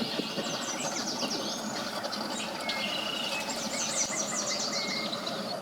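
Small birds chirping and trilling, with several quick runs of short falling notes, over a steady low background rumble.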